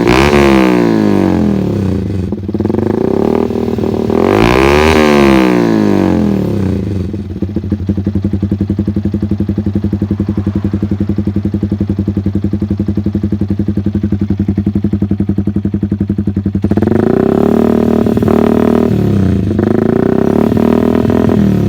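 Yamaha R15's single-cylinder four-stroke engine running through a Proliner TR1 short aftermarket exhaust. The throttle is blipped so the revs rise and fall at the start and again about four seconds in. It then settles to a loud, evenly pulsing idle, and is revved again over the last few seconds.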